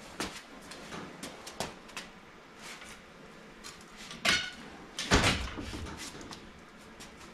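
Car seat being worked loose and lifted out of the car: scattered clicks and knocks, a short scrape about four seconds in, then a heavy thump about five seconds in.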